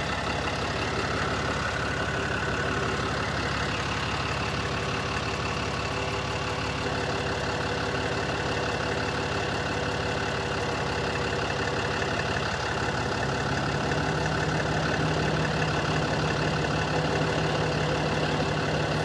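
A motor vehicle engine idling steadily, loud enough to make talk hard to hear. A low steady tone joins about two-thirds of the way through.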